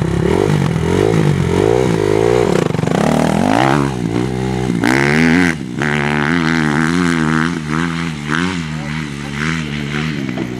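Motocross motorcycle engine running hard, its pitch rising and falling over and over with the throttle, briefly dropping off about halfway through before picking up again.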